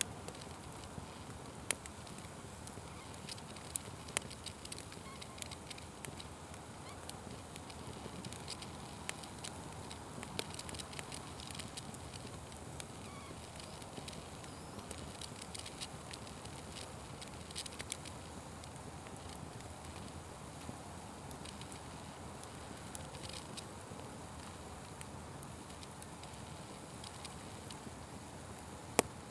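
Wood fire burning with a steady hiss and scattered sharp crackles and pops, the loudest pop near the end.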